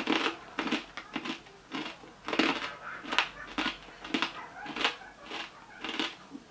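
Pork crackling being chewed: a steady run of crisp crunches, about two a second, super crunchy.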